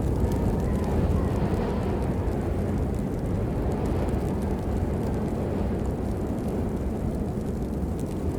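Steady rain: a dense, even wash of sound with a deep low rumble beneath a fine patter of drops.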